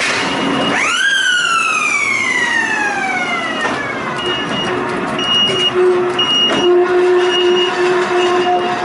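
Volk's Electric Railway train: a whine that rises sharply about a second in and then falls slowly for about three seconds. A short high beep repeats about once a second throughout, and a steady lower tone comes in about two-thirds of the way through.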